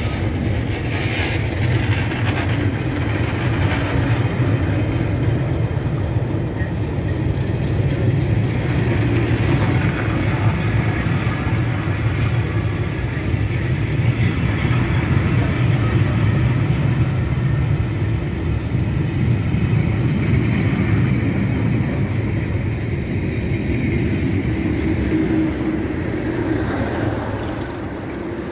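A passenger train's coaches rolling past at close range, with a steady rumble of wheels and running gear. Near the end the rear Class 37 diesel locomotive draws level and the sound fades out.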